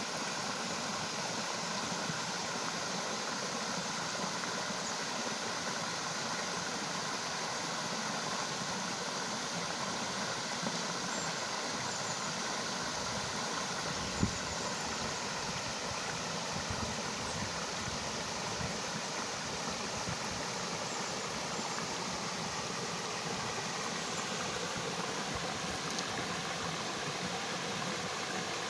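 Waterfall: a steady, even rush of falling water, with one brief knock about halfway through.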